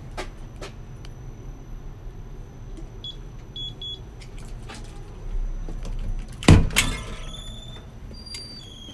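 A steady low rumble with scattered clicks, three short high beeps about three seconds in, and a loud bang that rings briefly about six and a half seconds in.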